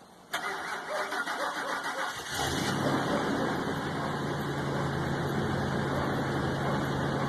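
Ford F-150 pickup cold-started in freezing weather: the starter cranks for about two seconds, then the engine catches and runs steadily.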